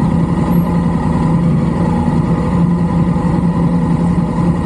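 Motorcycle engine running at a steady speed, a constant hum with rapid low firing pulses.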